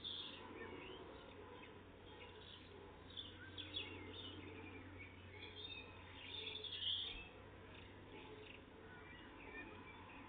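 Small songbirds chirping and singing, many short high calls overlapping, the loudest about two-thirds of the way in, over a low steady hum.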